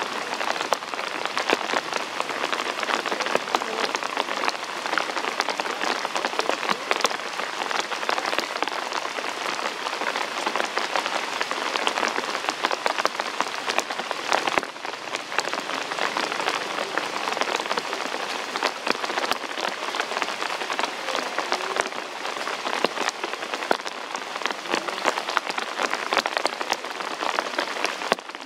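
Steady rain falling: an even hiss of countless small drops hitting the ground and nearby surfaces, without a break.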